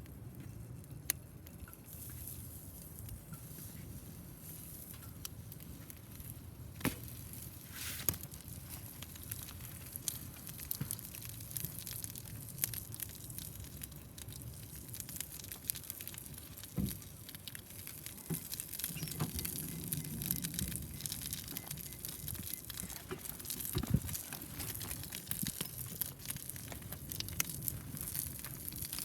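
Wood fire burning in a homemade tower-style fire pit, crackling with scattered sharp pops over a steady hiss.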